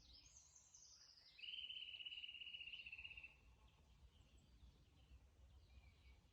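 Songbird singing: a high falling phrase, then a rapid trill of evenly spaced notes lasting about two seconds, followed by faint scattered chirps.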